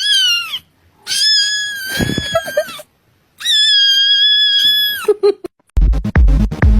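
A cat meowing loudly three times: a short falling meow, then two long, drawn-out high yowls. Electronic dance music with a heavy beat starts near the end.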